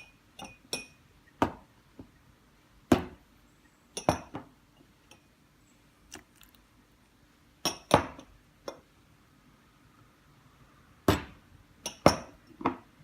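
Glass containers and a bowl clinking and knocking together about a dozen times, at uneven intervals, as ingredients for a hair mask are put into the bowl.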